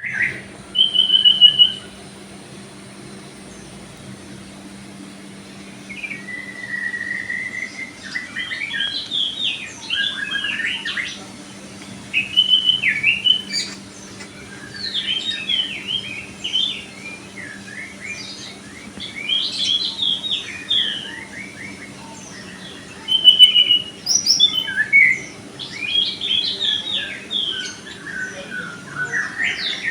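Songbirds singing and chirping in bursts of quick, varied whistled notes and short trills, with brief pauses between phrases.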